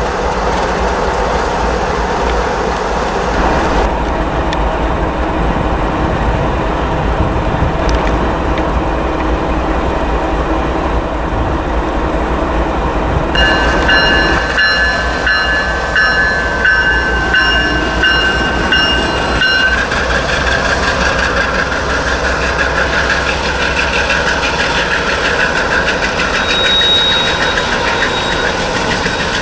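Freight train led by a GE ET44AC diesel locomotive and a second diesel unit, moving slowly with a steady engine rumble and the noise of rolling cars. Several seconds past the middle, a cluster of high, steady ringing tones rides over it.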